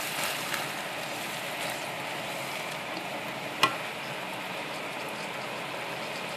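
Chicken, mushrooms and tomato sauce sizzling in a frying pan, a steady hiss. A single sharp knock about three and a half seconds in.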